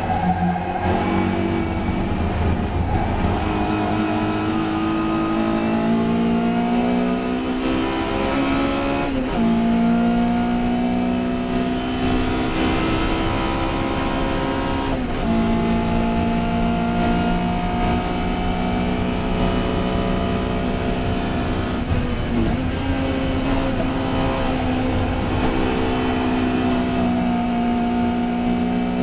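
Touring race car's engine running hard under racing load, its pitch slowly climbing, with three brief sharp dips in pitch spread through the stretch.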